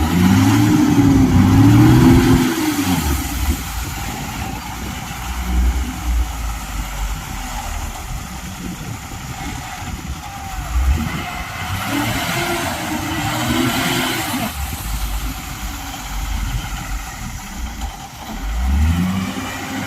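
Heavy diesel engine running under load and revving up and down in repeated surges, strongest near the start, again about two-thirds of the way through, and at the end.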